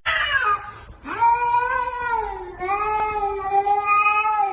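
A cat yowling: a short falling cry, then a long drawn-out yowl starting about a second in that dips and picks up again midway.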